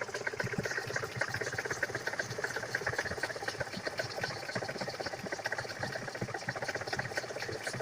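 GAZ 3102 Volga's ZMZ-402 four-cylinder engine idling at lowered revs with a fast, dull, diesel-like knock from the front of the engine, which the owner puts down to play in a worn bakelite camshaft timing gear.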